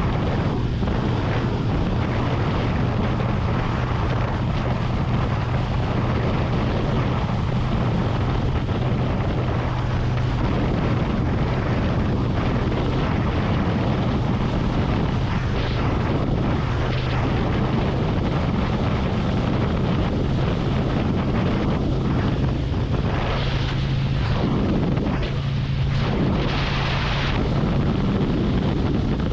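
Harley-Davidson Road Glide's V-twin engine running at a steady cruise on the highway, a constant low hum under heavy wind rush on the helmet-mounted action camera's microphone.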